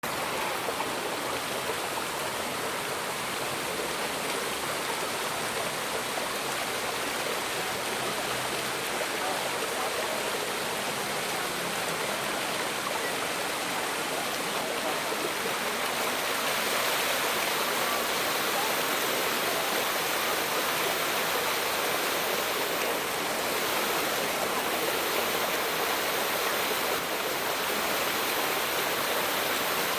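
Steady rushing of flowing water, like a stream, an even noise with no distinct calls or knocks, growing a little louder about halfway through.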